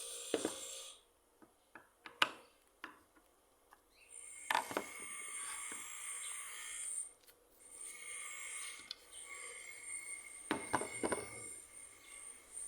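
Long scraping and rubbing strokes on wood, with a few sharp knocks in between, the loudest about two seconds in and near the ends of the strokes.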